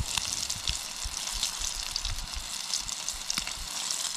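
Battered bass nuggets deep-frying in hot oil: a steady sizzle with many small crackling pops.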